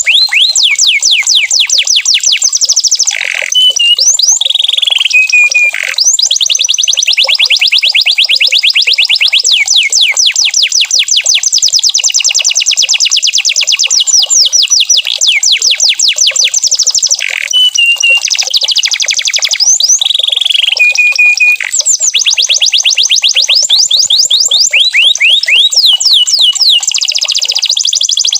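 Canary singing a long, continuous song of fast trills, each made of rapidly repeated sweeping notes, broken a few times by short held whistled notes.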